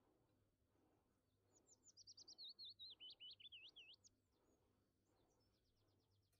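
A bird singing a quick run of high notes that falls in pitch, lasting about two and a half seconds, followed near the end by a brief faint trill.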